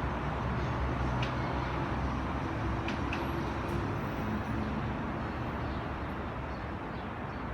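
Steady outdoor traffic noise with a low engine hum that eases off a little, and a few faint short clicks.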